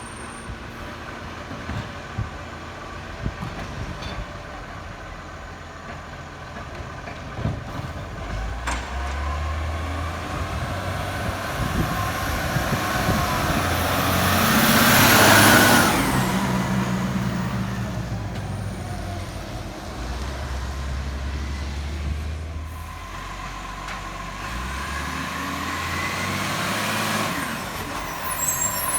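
Garbage truck's diesel engine running, its revs stepping up and down, with a loud burst of hiss about halfway through.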